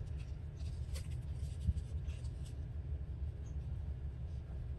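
Paper scraps being handled on a work surface: soft rustles and light taps, with a sharper click about a second in and a dull thump shortly after, over a steady low hum.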